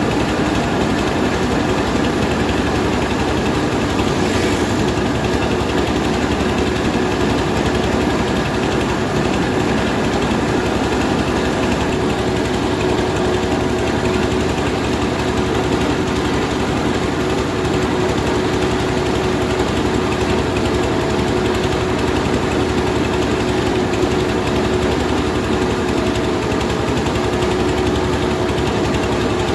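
Rice milling machine running steadily: an unbroken, even machine noise with a constant hum.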